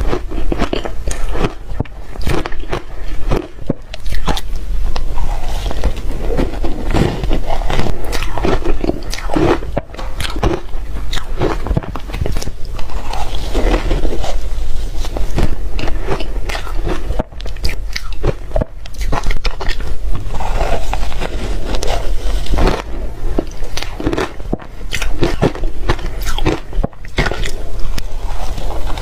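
Loud, irregular biting and chewing crunches of shaved ice, one crunch after another.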